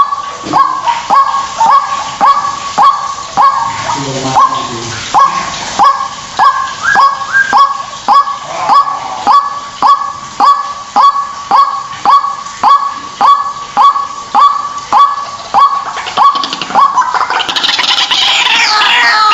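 White-breasted waterhen giving its repeated honking 'ruak' call, one note roughly every three-quarters of a second. Near the end it breaks into a denser, louder, harsher run of calls.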